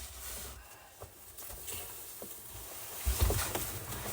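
Clothing and backpack rustling with a few dull low thumps about three seconds in, as someone squeezes a heavy backpack through a dugout's narrow entrance.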